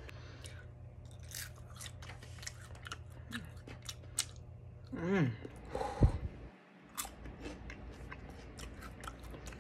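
Close-up chewing of crunchy insects: a run of small crisp crackles and crunches in the mouth. A short voiced hum about five seconds in, and a single thump about a second later.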